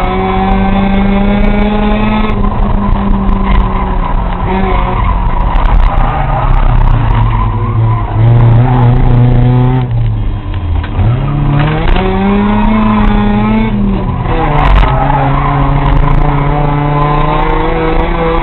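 Race car engine at full racing pace, its pitch falling as the driver lifts and rising again as he accelerates, several times over, as it works through the corners of a short track.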